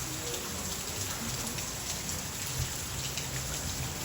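Steady rain falling, with individual drops ticking through the hiss.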